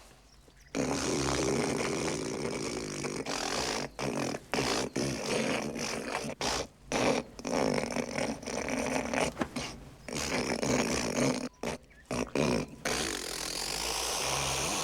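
A man hawking up phlegm in a long, exaggerated throat-clearing: a rough, gurgling rasp from the back of the throat that breaks off and starts again several times as he gathers a gob to spit.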